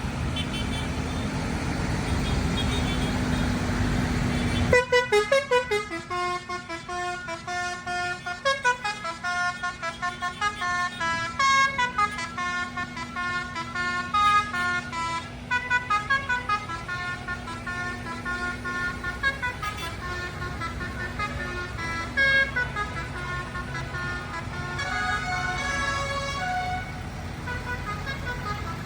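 A vehicle engine running, then from about five seconds in a multi-note musical horn playing a tune, its notes stepping up and down.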